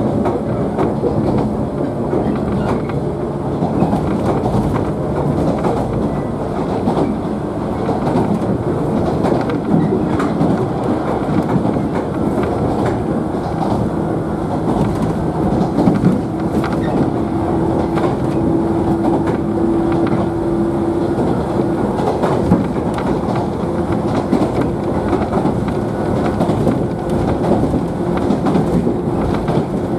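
JNR 113 series electric train running between stations, heard from inside the car: a steady rumble of wheels on rail with clickety-clack over the rail joints. A steady whine comes in about halfway through and again near the end.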